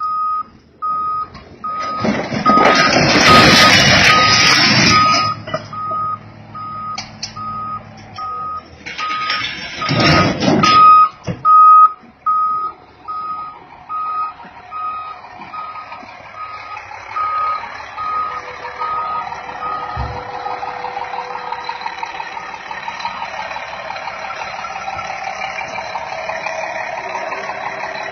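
A vehicle's reversing alarm beeping at a steady rate, falling silent about two-thirds of the way through. Two loud bursts of rushing noise swamp it, one about two seconds in and another about nine seconds in. A steady mechanical hum runs under the later part.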